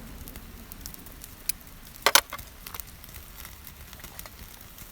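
Food grilling over flaming charcoal in a shichirin: scattered crackles and pops, with a sharp cluster of pops about two seconds in.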